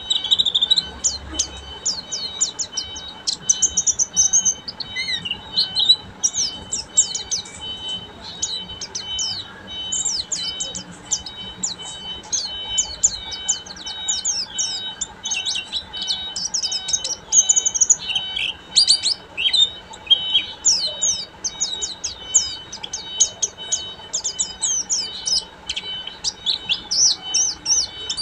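Pleci (white-eye) singing a fast, continuous twittering song of high, quick chirps in an unbroken stream, the chattering 'ngeriwik' style.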